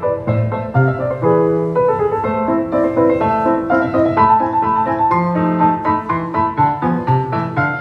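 Piano music: a melody over chords, notes struck in quick succession with a bass line.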